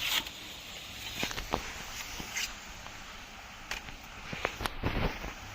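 Scattered snaps, crackles and rustling of dry plant stalks and leaves being handled in the field, with a few stronger snaps near the end.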